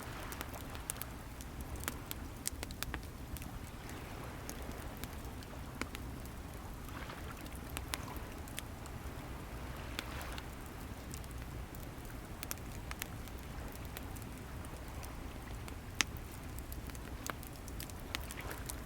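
Wood bonfire crackling with frequent sharp pops, over a steady low rumble of sea waves that swells every few seconds.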